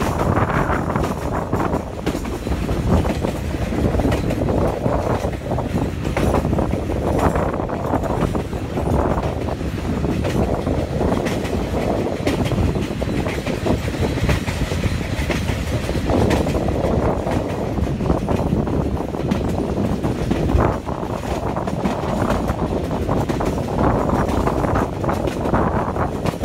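TAZARA passenger train running along the track, heard from an open carriage window: a continuous rumble of wheels and coaches with irregular knocks and clatter.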